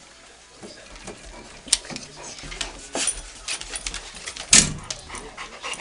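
A dog bouncing around, with scattered clicks and knocks and one louder short sound a little past halfway.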